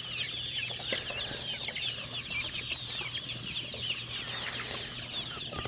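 A flock of chickens and turkeys calling: many short, high, overlapping peeps and clucks without pause, over a steady low hum.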